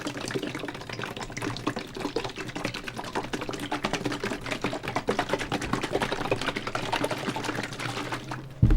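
Close, dense scratchy rubbing and rapid irregular clicking, as of a cloth scrubbing the plastic AirPods Pro case. One heavy thump near the end.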